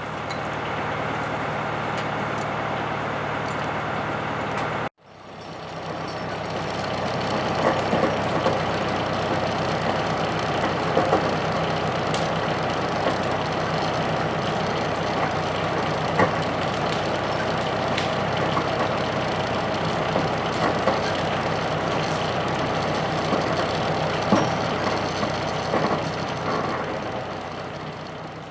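John Deere 2750 tractor's diesel engine running steadily, with a few faint ticks and rattles. The sound cuts off abruptly about five seconds in and resumes.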